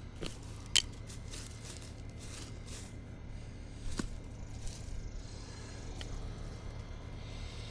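Yard-work handling noises: rustling of plant growth with a few sharp clicks and snaps, the loudest about a second in, over a steady low hum.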